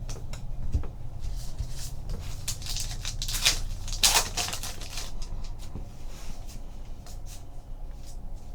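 Trading card packs and cards being handled: light clicks and rustling, with a louder stretch of wrapper crinkling about three to four seconds in, over a steady low hum.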